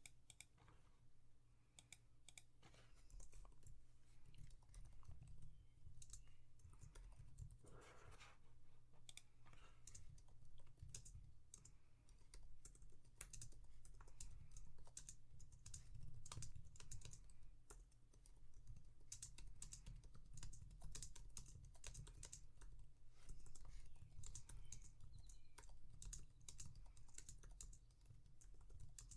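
Typing on a computer keyboard: quiet, irregular keystrokes in runs, with short pauses between them.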